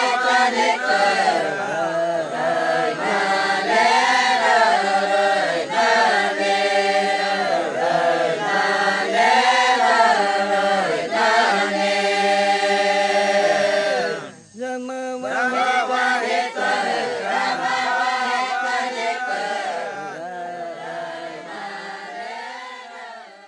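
A group of voices chanting together in unison, in long rising and falling phrases. The singing breaks off briefly about halfway through, then resumes and fades out at the end.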